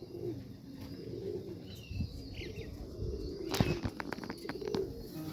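Domestic pigeons cooing steadily, with a burst of wing flapping about three and a half seconds in.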